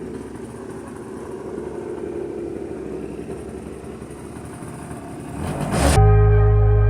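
Yamaha Zuma scooter's small two-stroke engine idling steadily, running on its newly fitted carburetor. Music cuts in loudly near the end.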